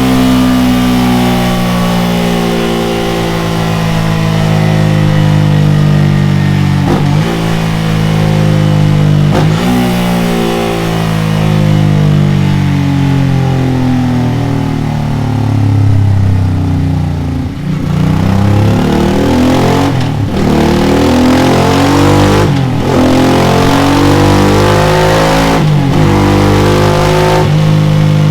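Honda NT650V Deauville's V-twin engine running through a Delkevic X-Oval titanium aftermarket silencer on a dyno, revved again and again: the pitch climbs and falls repeatedly. In the second half come several sharp throttle blips that cut off and pick up suddenly.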